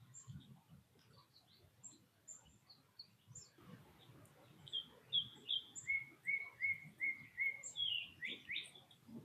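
Wild birds calling: scattered short, high chirps, then a songbird singing a series of repeated whistled notes that slur downward, about five in a row, ending with a couple of quick rising notes.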